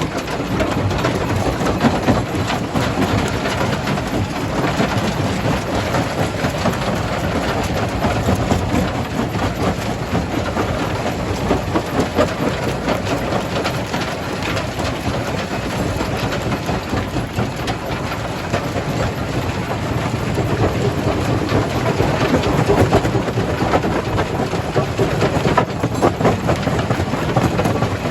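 Jaw crusher running and crushing rock: a continuous heavy rumble with a dense rattle and crackle of breaking stone.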